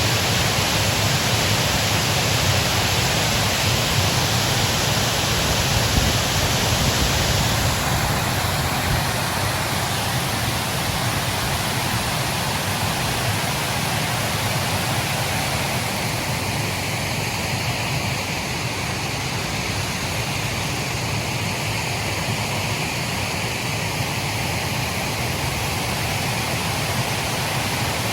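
Steady rushing noise of snowstorm wind, easing a little in its hiss about eight seconds in.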